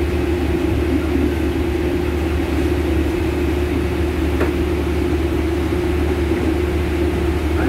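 Steady rumble and hum inside a passenger train carriage, with a low drone and a constant mid-pitched hum.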